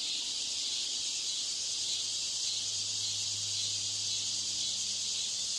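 Steady high-pitched hiss with a faint low hum underneath: the noise added to a test broadcast to imitate a poor loudspeaker system.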